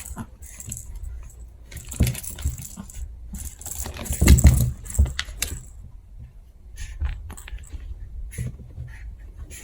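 Chihuahua puppies scuffling in play: scattered scratches, clicks and rustles, with a louder scrabbling burst about four seconds in.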